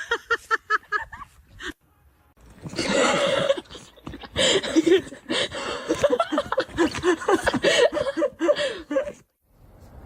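Human laughter: a quick run of short giggles, then a long stretch of hearty, breathy laughing in rapid pulses that cuts off suddenly near the end.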